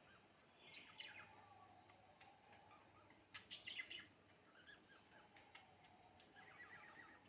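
Sparrows chirping faintly, in three short flurries of quick high chirps.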